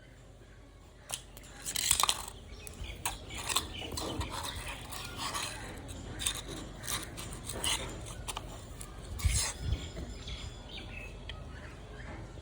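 Irregular clinks and knocks of hard objects being struck and handled, as a child plays. It starts about a second in, with the loudest knocks around two and nine seconds in.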